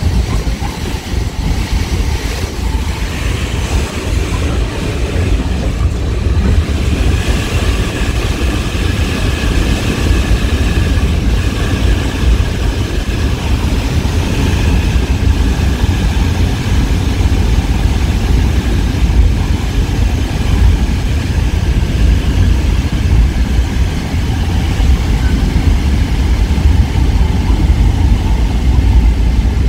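Caltrain gallery cab car running at speed, heard from the front of the cab: a steady, loud rumble of wheels on rail. About seven seconds in, a steadier hum joins it as the train runs into a tunnel.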